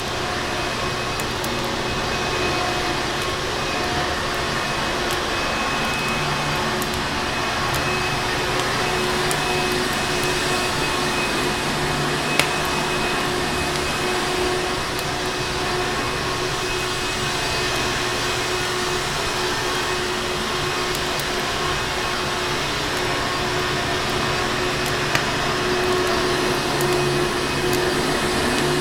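Vacuum cleaner motor running steadily, a constant whooshing noise with a hum and whine, with faint crackles and two sharper pops of a wood fire, about 12 and 25 seconds in.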